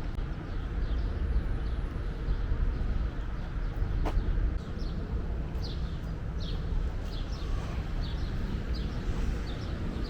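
Small birds chirping, many short falling chirps repeated throughout, over a steady low rumble of city background.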